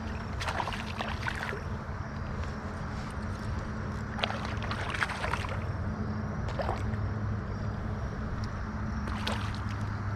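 Steady rush of flowing river water with a low hum, broken about four times by short bursts of splashing and crackling as a hooked fish is played in.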